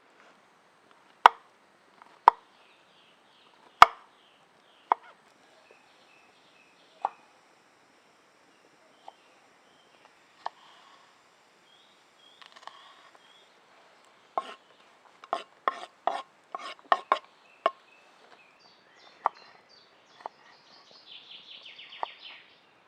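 Irregular sharp knocks and taps of hand work at camp, with a quick run of them about two-thirds through and a short scratchy rasp near the end. Faint bird chirps sound behind.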